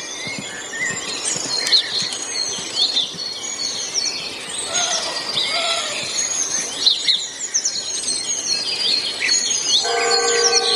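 Many birds chirping, with dense, quick, high chirps and twitters overlapping throughout. Near the end a steady, held, horn-like tone with several pitches starts up.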